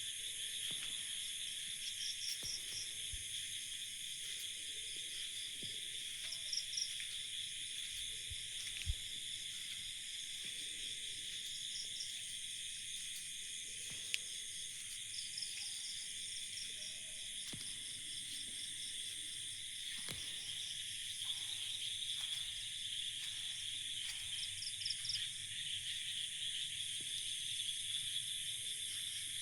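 Night chorus of insects such as crickets: a steady, high-pitched trilling, with short pulsed chirp trills breaking in every several seconds. A couple of faint clicks sound about nine and fourteen seconds in.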